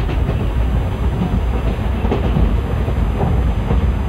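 Train coach running on the rails, heard from inside: a steady rumble with a few faint wheel clacks.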